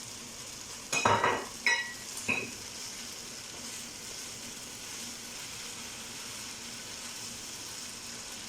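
Rice and minced-meat mahshi filling sizzling steadily as it fries in a pan while spices are stirred in. About a second in come three short ringing clinks of the stirring spoon against the pan.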